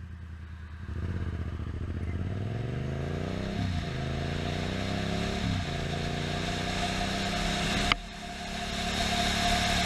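Yamaha FZ-07's 689 cc parallel-twin engine pulling away and accelerating through the gears: the engine note rises, drops at upshifts about three and a half and five and a half seconds in, then holds steady at cruising speed. A single sharp click near the eight-second mark, with a short dip in level after it.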